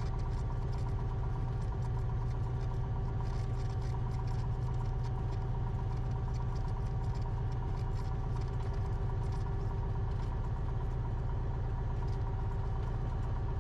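Cessna 172RG's four-cylinder Lycoming O-360 engine and propeller running steadily at idle after landing, an even hum with no change in pitch.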